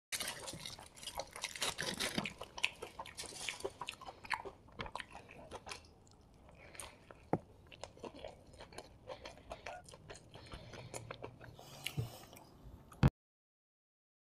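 Close-miked chewing and biting of a chicken chapathi roll: wet, squishy chewing with many sharp mouth clicks, busiest in the first few seconds and sparser after. It ends in one loud click about 13 seconds in and then cuts out abruptly.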